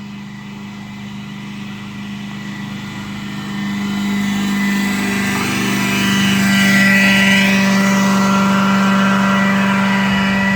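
Mosquito fogging truck approaching and passing close by: a steady engine and blower drone with a constant hum, growing louder over the first six seconds and then staying loud.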